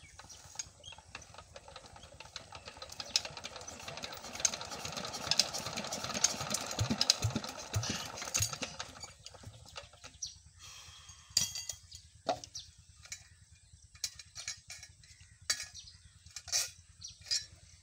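Old tube-well engine being cranked over: a clattering mechanical noise builds for several seconds, then stops at about nine seconds without the engine running on, followed by scattered clicks and knocks.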